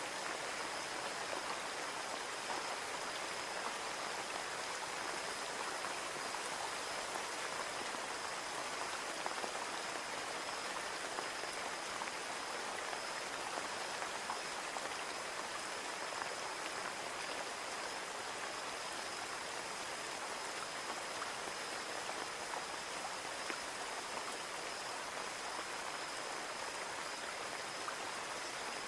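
Rain falling on a window glass: a steady, even patter of drops with no let-up, with a faint steady high tone beneath it.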